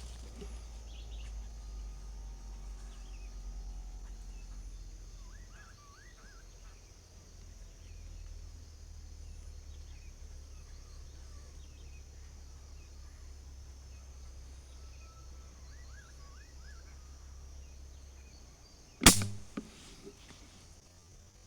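Benjamin air rifle firing one sharp shot near the end, with a smaller click about half a second after it. Before the shot there is a low rumble and a few faint bird chirps.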